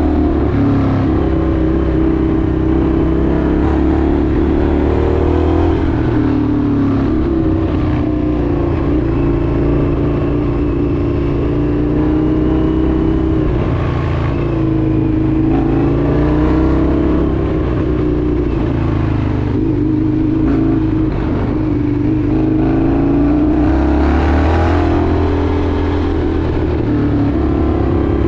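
Indian FTR 1200's V-twin engine running steadily under way, its pitch rising and falling gently several times with the throttle.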